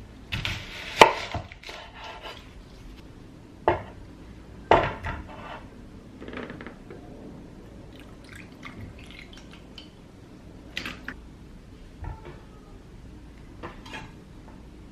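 Dishes and cutlery clattering and knocking during kitchen work: a burst of clinks in the first couple of seconds, two sharper knocks about four and five seconds in, then scattered lighter clicks.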